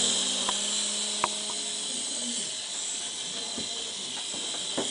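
Small electric toy remote-control helicopter running, its motor and rotor making a steady high hissing whir over a faint low hum, with a couple of light clicks.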